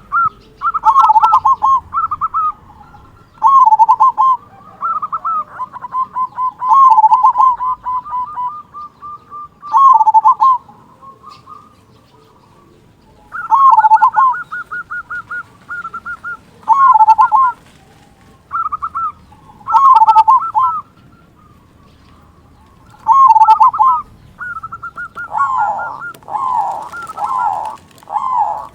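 Zebra dove (perkutut) cooing: repeated phrases of quick stuttering notes that run into a deeper, looping "kung" note, with short pauses between phrases. Near the end the calls come thicker and overlap.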